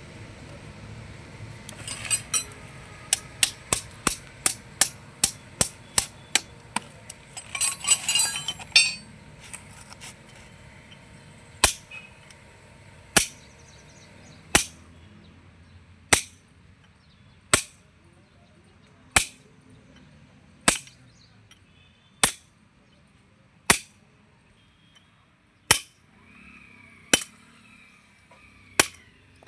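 Hammer striking metal on a truck differential: a quick run of taps about three a second, a rattling clatter about eight seconds in, then single sharp blows about every second and a half.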